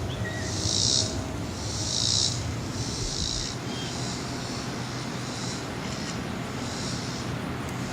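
An insect buzzing in high-pitched pulses about a second long, roughly once a second, strong in the first two seconds and then fainter, over a steady low background rumble.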